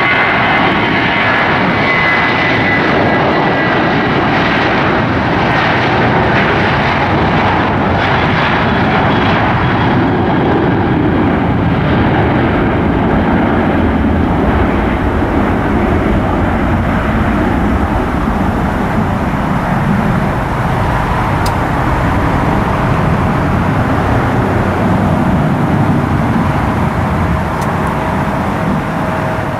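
A passing airliner's engines: a loud, steady rush with a high whine in the first few seconds that fades, easing off a little near the end.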